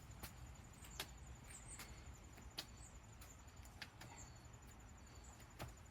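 Near silence outdoors: a low rumble with about five faint sharp clicks spread out and a few brief, faint high chirps.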